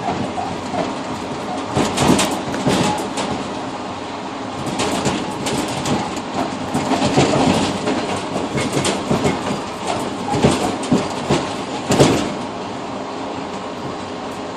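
Passenger train running, its wheels clattering over rail joints in irregular clusters of sharp clacks above a steady rolling rumble. Heard from inside the vestibule of the rear car.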